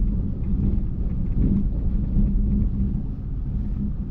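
Steady low rumble of a car driving, heard from inside the cabin: road and engine noise with a constant low hum.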